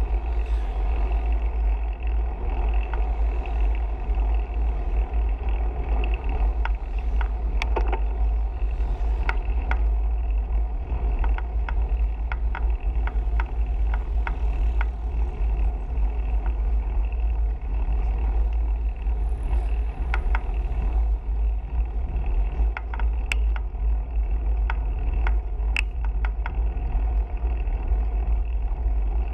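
Steady wind rumble and road noise from a bicycle in motion, with scattered sharp clicks and rattles.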